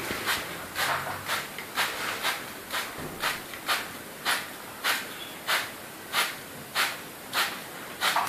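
Hand spray bottle squirting water in short hissing sprays, about one and a half squeezes a second in a steady rhythm, misting a parrot.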